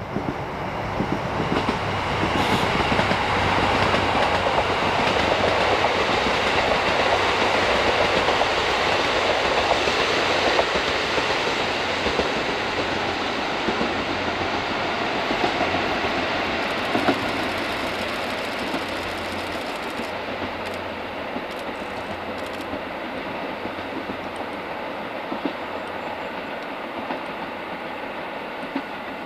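A diesel train running past on the rails, its wheels clacking steadily, loudest for the first twenty seconds and then easing slightly.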